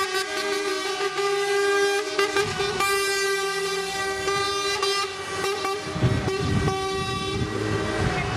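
Several truck air horns blowing together, overlapping held notes of different pitches, with one low note sounding almost throughout while the others start and stop. About six seconds in, a low rumble of truck engines grows louder under the horns.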